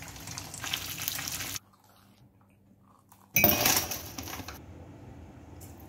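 Coated tuna pie rolls sizzling and crackling as they fry in oil in a saucepan. After a brief silent gap, a louder burst of glass clinking around two glass mugs that fades within about a second.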